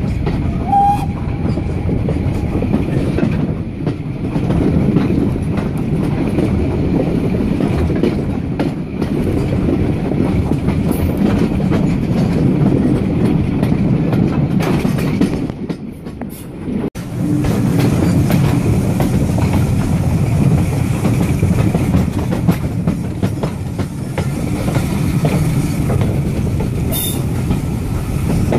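Steam-hauled heritage train running along the line, heard from inside a passenger carriage at an open window: a steady rumble of carriage wheels on the track. The rumble dips briefly about sixteen seconds in, then carries on.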